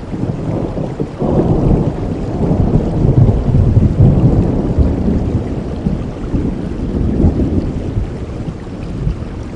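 Rolling thunder over steady rainfall: a low rumble that swells about a second in and slowly fades toward the end.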